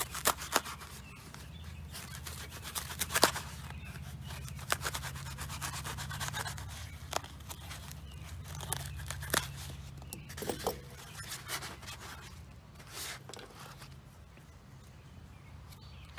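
Aluminum foil crinkling and tearing as it is handled, in irregular crackles and clicks over a low steady hum.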